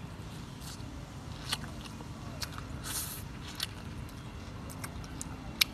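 Close-up eating sounds of roast chicken: irregular sharp crunchy clicks and short crackles from biting and chewing the charred, crisp skin.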